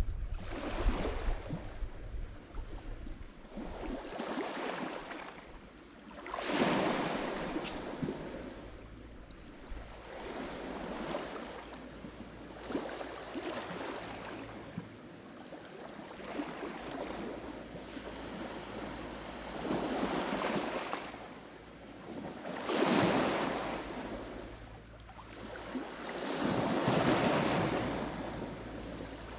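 Lake Michigan waves breaking on the shore, each one a rushing swell that rises and fades every few seconds; three larger waves stand out. A little wind buffets the microphone at the start.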